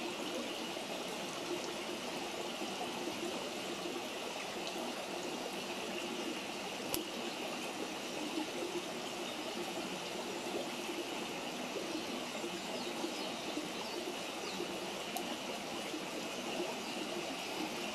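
Wood campfire burning, with two sharp pops of the wood about 7 and 15 seconds in over a steady rushing hiss.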